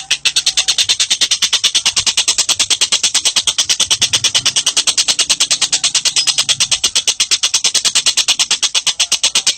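A songbird trilling without a break: a fast, even string of high, sharp notes, about ten a second.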